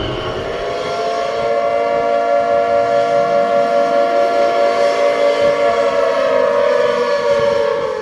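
A loud horn-like tone held for several seconds, several notes sounding together with a slight pulsing, sagging a little in pitch near the end.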